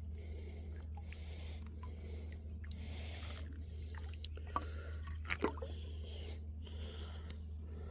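Shallow creek water trickling around a wader, with a few short knocks about four and a half and five and a half seconds in.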